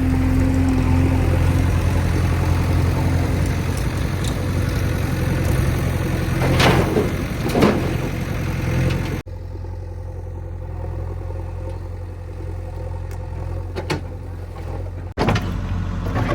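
Heavy diesel machinery running steadily, with two short loud sounds about seven seconds in. The sound cuts abruptly just past halfway, runs quieter for about six seconds, then cuts back to the louder engine sound near the end.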